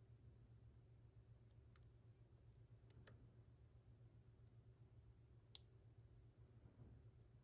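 A handful of faint, sharp clicks from lock picks working the pins of a Mul-T-Lock C-Series padlock's serrated core while its inner pins are picked, over a low steady hum.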